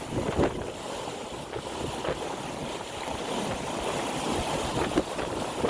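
Sailing yacht under sail in strong wind: water rushing along the hull and wind buffeting the microphone, with a couple of sharper gusts or slaps about half a second in and near the end.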